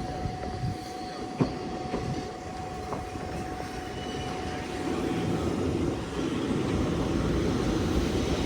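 Wakayama Electric Railway 2270 series electric train pulling into a terminal station, with a steady whine, a couple of sharp clacks of wheels over rail joints early on, and a rumble that grows louder in the second half as the cars draw near.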